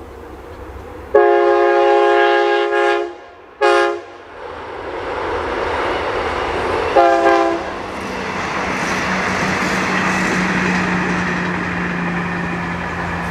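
Train horn sounding a long blast of several tones at once, a short blast right after it, and another short blast about three seconds later. The train then runs past with a steady rushing rumble and a low engine drone.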